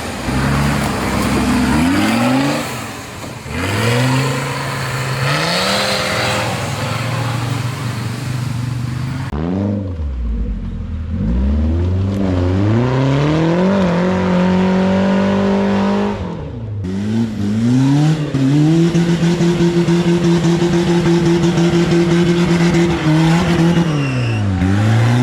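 Off-road 4x4 engine revving hard, its pitch climbing and falling again several times. In the last third it is held at high revs for a few seconds, then falls away near the end.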